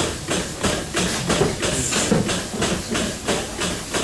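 Goat milking machine running: a rhythmic hiss-and-click from the pulsators, about three strokes a second, over the steady hum of the milk vacuum pump.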